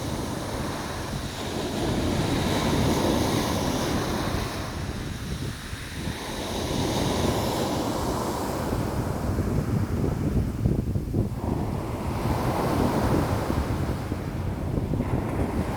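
Sea waves washing in and drawing back, a continuous rushing that swells and eases every few seconds, with wind buffeting the microphone.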